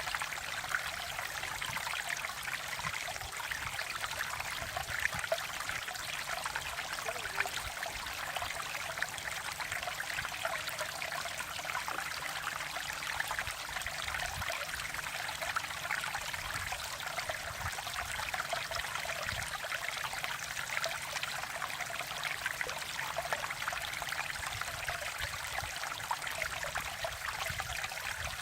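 Mountain valley stream flowing steadily over rocks, a continuous babbling, splashing rush of water.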